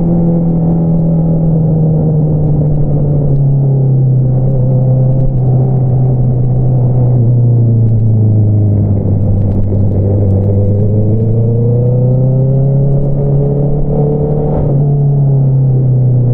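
Honda CBR650R inline-four engine running through an Akrapovič single-outlet exhaust while riding. The engine note eases down in pitch over the first several seconds, climbs again, then a brief click about fifteen seconds in is followed by a drop in pitch.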